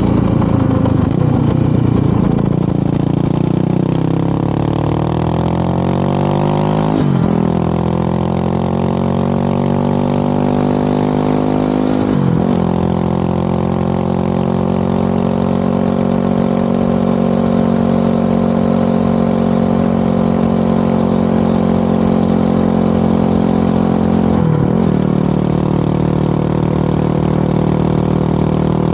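Motorcycle engine and exhaust while riding: the revs drop and pick up again over the first several seconds, then settle into a steady cruise broken by brief gear changes about 7, 12 and 25 seconds in.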